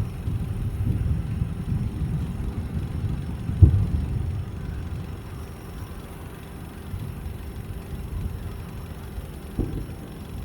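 Fireworks shells bursting at a distance: a rolling low rumble of booms, with one sharp loud bang a little under four seconds in and a smaller one near the end.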